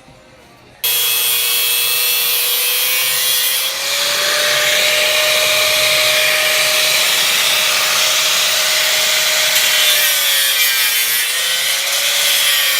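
A power tool cutting into the stock exhaust muffler's sheet metal. It makes a loud, steady whine over a hiss, and the whine sags briefly near the end as the cut loads the tool. It starts and stops abruptly.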